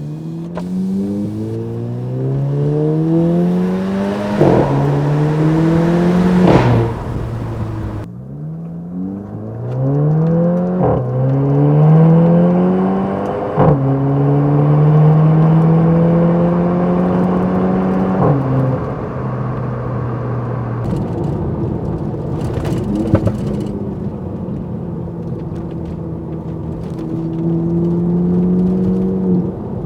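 Exhaust note of a 2018 VW Golf GTI Mk7.5's turbocharged 2.0-litre four-cylinder, accelerating hard through the gears. The pitch climbs and drops back at each upshift, about four times. It then holds a steady cruise, settling lower in the second half.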